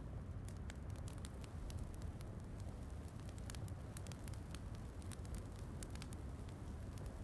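Fireplace fire crackling, with frequent small sharp pops at irregular intervals over a steady low rumble.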